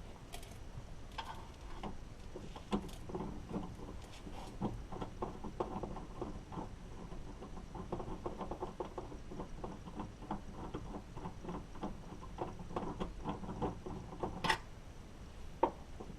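Rapid light clicking of a hand tool tightening the T25 Torx screw that holds a car's exterior door handle, with a couple of sharper clicks near the end.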